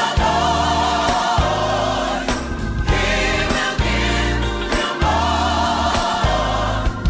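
Gospel choir singing with instrumental accompaniment, a steady bass line changing notes under the voices.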